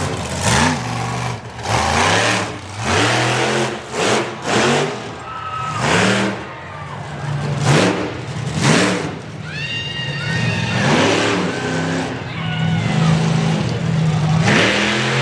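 Monster truck engine revving hard over and over. Its pitch climbs and drops with each stab of the throttle, with loud bursts of exhaust noise, and it holds a steadier pitch for a moment near the end.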